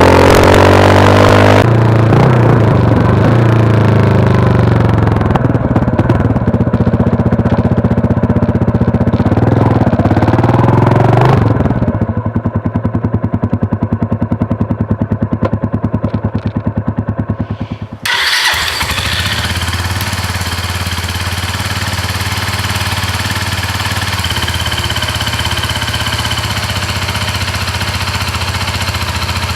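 Suzuki TU250X single-cylinder motorcycle engine running through its exhaust, blipped up and down a few times and then idling. About 18 seconds in there is an abrupt cut to a steady idle with a different tone, typical of a stock-versus-aftermarket muffler noise comparison.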